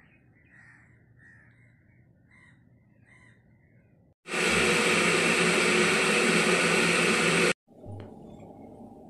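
Crows cawing faintly, a string of short calls over the first four seconds. About four seconds in, a loud, steady rushing noise starts abruptly and cuts off just as suddenly some three seconds later.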